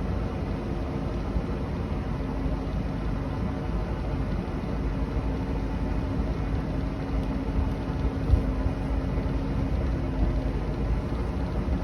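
Motorboat under way, its engine running at a steady pitch over the rush of wind and water, with one brief thump about eight seconds in.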